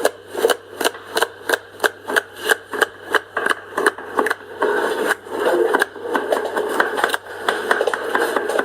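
Knife chopping celery stalks on a cutting board: a steady run of crisp chops, about three a second, growing less regular near the end.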